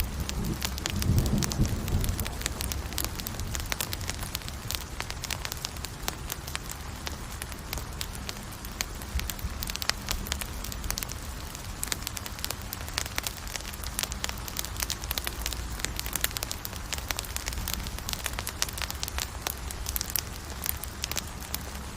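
Wood campfire burning, with a steady hiss and frequent sharp crackles and pops. A brief low rumble in the first couple of seconds.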